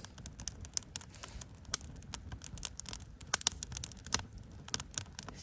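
Wood campfire crackling: irregular sharp snaps and pops from the burning wood, a few louder than the rest, over a low steady rumble.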